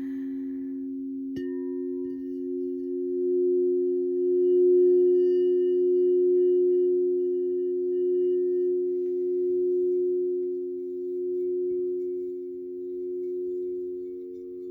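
Singing bowl ringing with a steady, slowly swelling and ebbing hum. It is struck once about a second and a half in, adding brighter overtones that fade away over several seconds.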